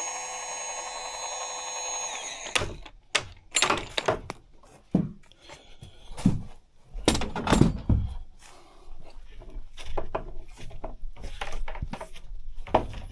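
A small handheld power tool's motor runs steadily with a whine for about two seconds, then stops abruptly. It is followed by a string of irregular knocks and clunks as tools and parts are handled.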